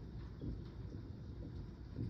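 Thunderstorm ambience: a steady low rumble with a few faint scattered taps.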